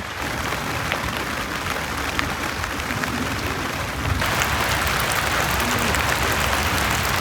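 Heavy rain pouring down in a steady hiss of drops, growing louder about four seconds in.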